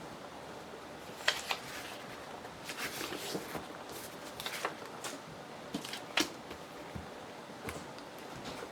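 Paper and small craft pieces being handled on a table: scattered rustles and light taps, with two sharper clicks about a second in and about six seconds in.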